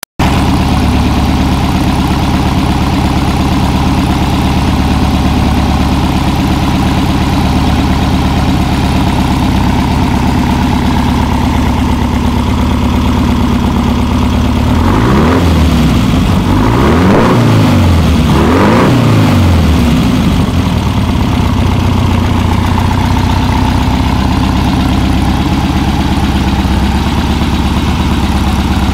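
Baja's new engine on twin 36 mm Dell'Orto carburettors idling steadily, blipped three times in quick succession about halfway through, each rev rising and falling, then settling back to idle.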